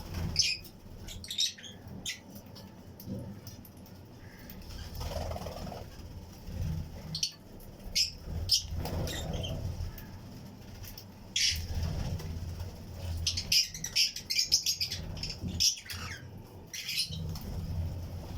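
A colony of Fischer's and lutino lovebirds chirping: many short, shrill chirps overlapping, busiest about two-thirds of the way through.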